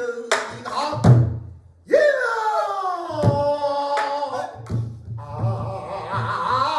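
Pansori singing: a solo voice holds a long, sliding sung phrase with a wide vibrato, accompanied by sharp strokes of the buk barrel drum.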